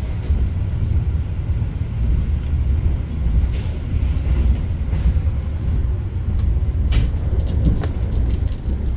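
Steady low rumble of the Argo Bromo Anggrek express train in motion, heard inside the passenger coach, with a few brief clicks and knocks.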